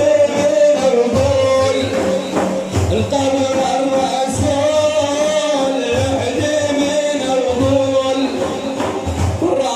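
A man singing a long, wavering melodic line of Islamic praise song (manqaba), over a regular beat of hand-struck frame drums.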